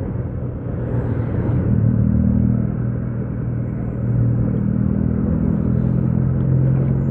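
Motorcycle engine running at a steady pitch, under a haze of road and wind noise.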